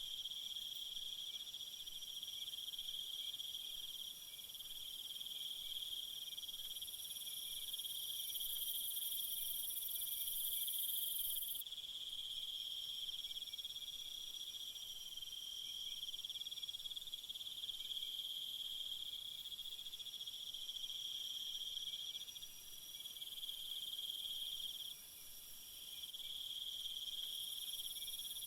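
A steady chorus of crickets chirring, with a second, much higher-pitched insect trill that comes in for several seconds about a quarter of the way through and again near the end.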